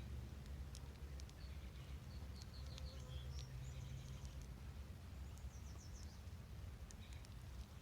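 Faint songbird song and calls: short high chirps and quick runs of notes, over a steady low background rumble.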